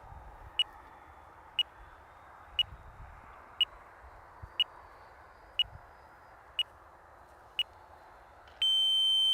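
Electronic beeper sounding short high beeps about once a second, eight in a row, then one long steady beep near the end, like a countdown timer running out.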